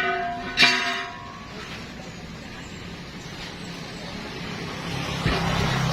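Two ringing metal clanks in the first second, from steel truck-wheel parts being struck during tire demounting. After them a vehicle engine runs in the background and grows louder near the end.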